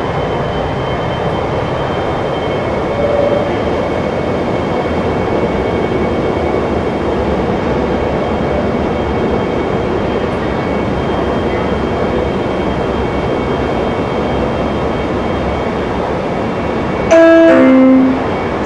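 CSR Zhuzhou light rail train running, a steady rumble of wheels on track with a faint steady high whine. About 17 seconds in, a loud on-board chime of notes stepping down in pitch sounds over the PA, the signal for a station announcement.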